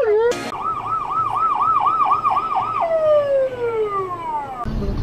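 Electronic emergency-vehicle siren: a steady tone breaks off with a click, then a fast warble at about four cycles a second, then a single tone sliding down in pitch. It cuts off suddenly near the end as low road and engine noise starts.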